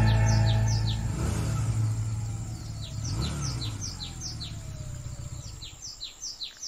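The tail of a song fades out in the first second, giving way to birds chirping in quick, repeated downward-sweeping notes over a low rumble that slowly dies away.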